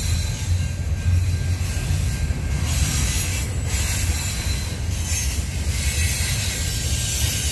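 Freight train rolling past: a steady low rumble of the cars on the rails with a high, hissing wheel squeal over it.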